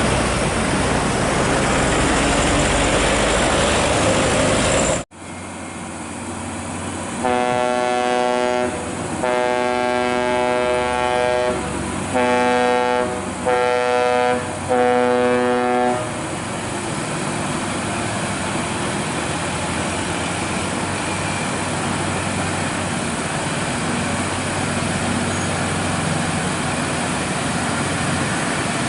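A vehicle horn sounds five times, two long blasts then three shorter ones, over a steady engine rumble that goes on after the horn stops. Before that, a loud rushing noise of traffic and wind breaks off abruptly at an edit.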